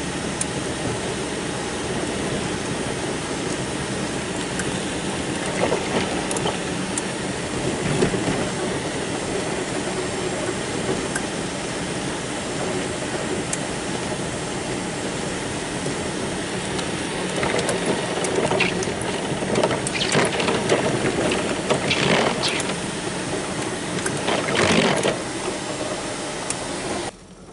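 Riding tractor running while plowing snow, a steady mechanical drone with louder rattling bursts in the second half.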